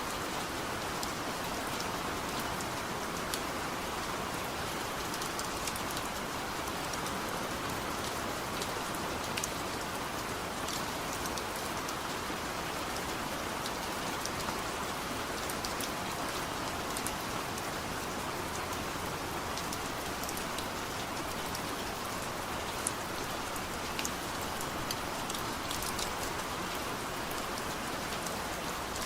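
Steady heavy rain, with individual drops ticking sharply on a surface over an even hiss.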